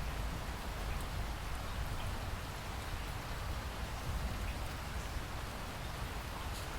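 Steady rain falling, an even wash of noise with a few faint separate drop ticks.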